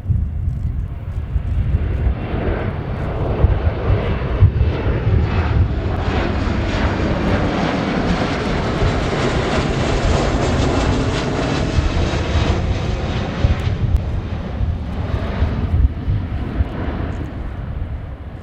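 Boeing P-8A Poseidon jet patrol aircraft, its two CFM56 turbofan engines, making a fly-by pass. The jet roar swells to a peak about halfway through, then fades as the aircraft moves away.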